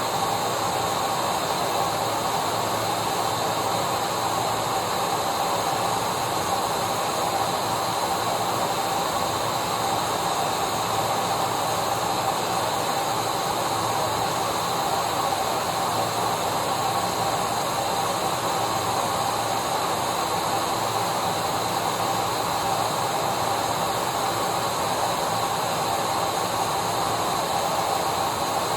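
Vacuum cleaner running steadily: a continuous motor whine and rushing air hiss with a fixed tone, no change in speed.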